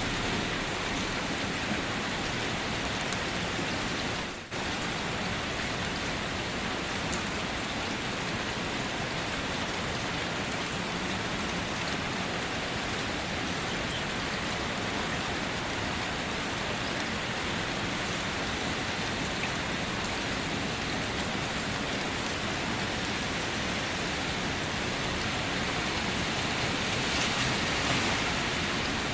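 Steady rain falling, an even hiss with one brief dip in loudness about four and a half seconds in.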